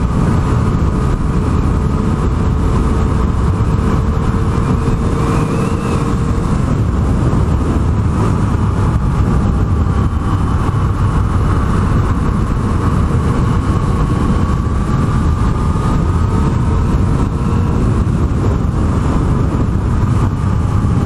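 Yamaha MT-09 inline-three engine running at a steady cruise, its pitch drifting slowly up and down, under heavy wind rumble on the microphone.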